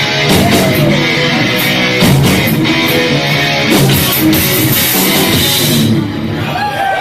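Live heavy metal band playing: distorted electric guitars, bass and drum kit, with the cymbals dropping out near the end.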